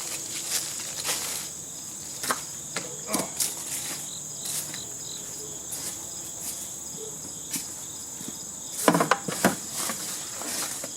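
Steady high-pitched chirring of insects, with scattered clicks and knocks over it and a cluster of louder knocks about nine seconds in.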